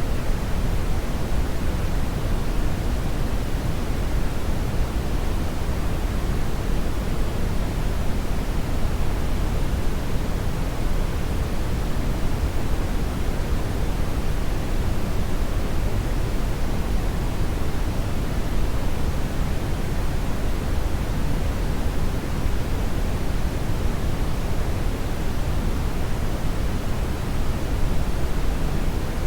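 Hair dryer running steadily: an even, unbroken rush of blown air, strongest in the low end, with no change in speed.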